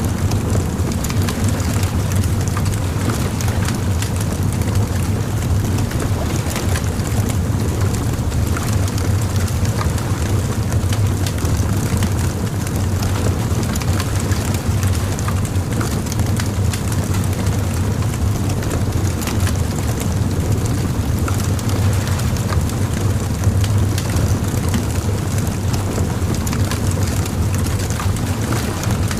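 Bonfire crackling, with frequent small sharp pops and snaps scattered irregularly over a steady low rumble.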